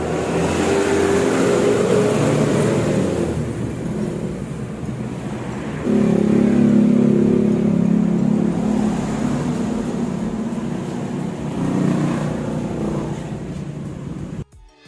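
Motorcycle engine with a diaphragm carburetor running and being revved. The revs rise over the first few seconds, jump up suddenly about six seconds in and hold for a few seconds, then ease down with one more small rise before the sound cuts off.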